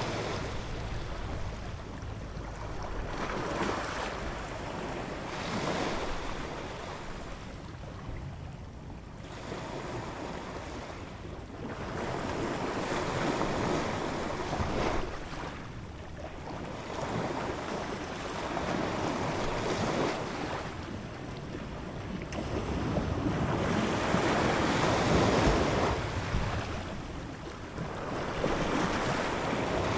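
Ocean waves breaking and washing in, swelling and falling back every few seconds, one surge after another.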